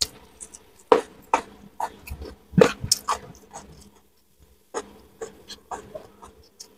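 Close-up eating sounds: a mouthful of fried gourami, rice and raw vegetables being chewed, with irregular sharp crunches and clicks, the loudest about two and a half seconds in.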